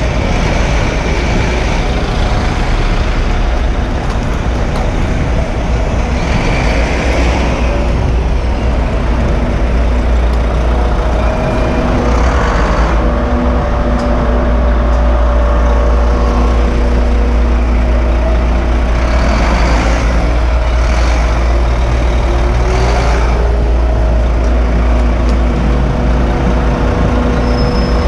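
Busy city road traffic heard from a moving bicycle: cars, trucks and buses running, with a steady low rumble and an engine hum, and vehicles swelling past several times.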